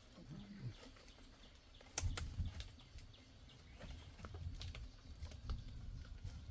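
Scattered light clicks and knocks over a low rumble, starting about two seconds in, like objects being handled.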